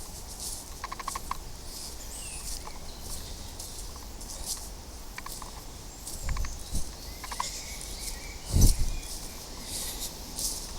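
Birds calling outdoors in short clusters of quick repeated notes, several times over, against a steady outdoor hiss. A loud low thump comes about eight and a half seconds in.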